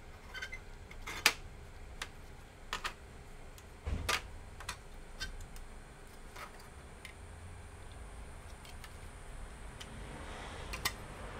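Irregular light clicks and taps of small tools and plastic laptop parts being handled during disassembly, the sharpest click about a second in, over a low steady hum.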